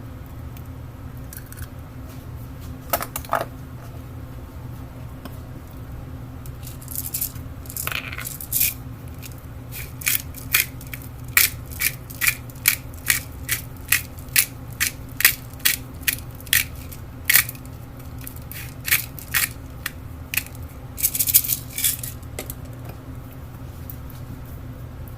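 Small hard kitchen items clicking and tapping: a few taps, then a regular run of sharp clicks about two a second, and a short clatter near the end. A steady low hum runs underneath.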